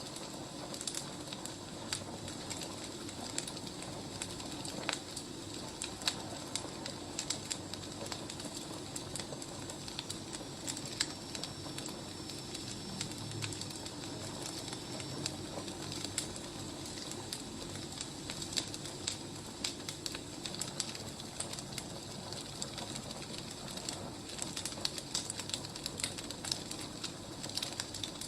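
Wood fire burning steadily, with irregular sharp crackles and pops over a soft constant hiss.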